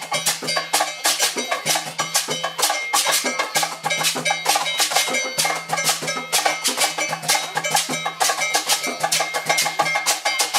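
Percussion-driven music of rapid, continuous metallic strikes with a bell-like ring, over a steady low hum.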